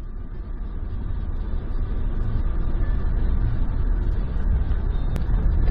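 A motor vehicle driving: steady low rumble of engine and road noise that grows gradually louder.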